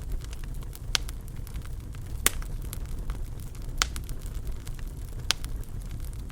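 Fireplace fire crackling over a low steady rumble, with many small crackles and four louder pops spaced about a second and a half apart.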